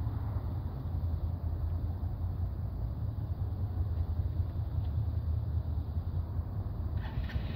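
A 125 cc motorcycle engine idling with a steady low rumble. About seven seconds in, a higher-pitched engine note joins it.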